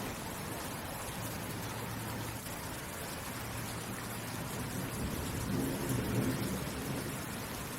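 Steady rain falling, with a low thunder rumble that swells to its loudest about six seconds in.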